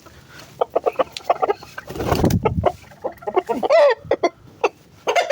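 Aseel chickens clucking, with a short rising-and-falling squawk a little before four seconds in. A brief burst of rustling noise about two seconds in.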